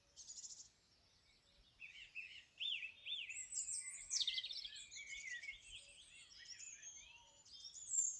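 Several small songbirds singing and calling together: quick high trills, chirps and whistled notes, with a pair of arched whistles about three seconds in.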